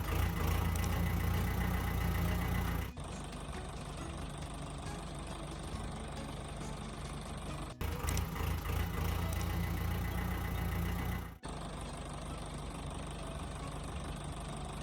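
A vehicle engine running steadily. It is louder and deeper for the first three seconds and again for a few seconds in the middle, with abrupt cuts between the louder and quieter stretches.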